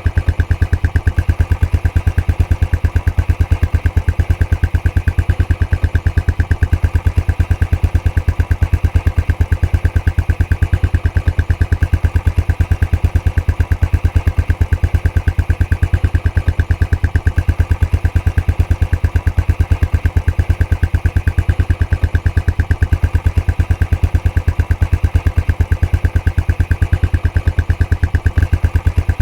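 Royal Enfield Classic 500's single-cylinder engine idling through its stock exhaust: a steady train of evenly spaced exhaust beats that holds the same speed throughout.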